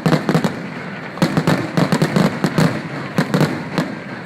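Fireworks display going off in rapid succession: a dense run of bangs and crackling pops, several a second, with no let-up.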